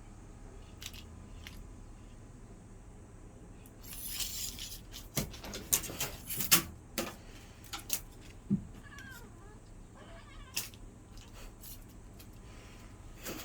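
A cat playing with a wand toy: a burst of rustling, then a run of sharp taps and knocks, and a short meow about nine seconds in.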